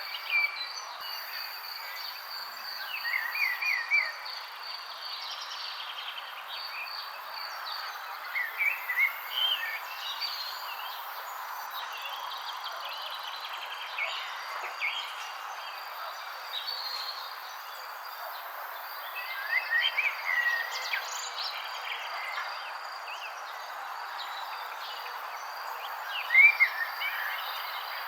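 Birds chirping in short phrases of quick up-and-down notes, five or so times, over a steady high insect trill and a soft background hiss.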